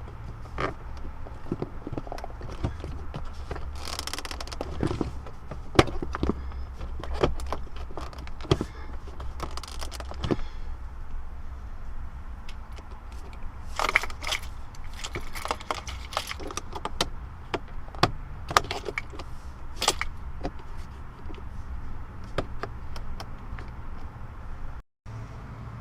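Plastic interior trim around a car's shifter being pried and worked loose by hand: scattered clicks, knocks and rattles.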